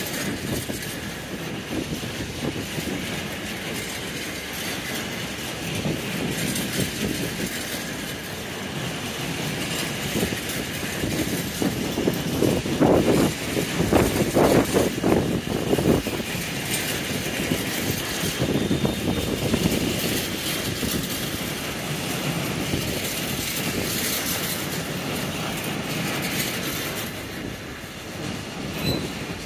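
A train running through the station, its wheels rumbling and clacking over the rail joints, loudest about halfway through.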